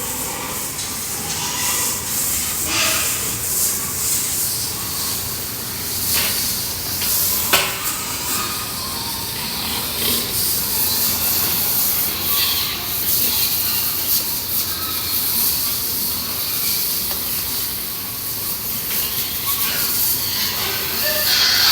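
Steady hiss of water spraying from a hose while pigs and their pen are washed down, with a single sharp knock about seven and a half seconds in.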